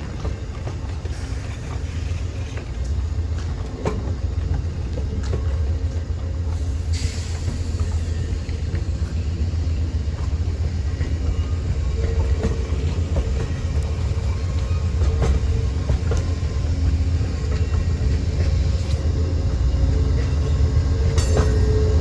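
Freight train rolling slowly through an interlocking: a low rumble that grows louder as it comes on, with scattered clicks of wheels over rail joints and switches. A steady tone comes in about halfway and is strongest near the end.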